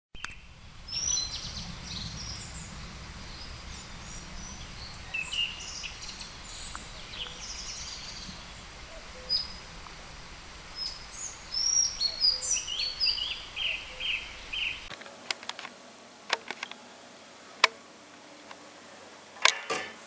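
Several birds chirping and calling in short, sliding notes over a steady low background noise. About three-quarters of the way through this stops abruptly and a few sharp clicks and knocks follow.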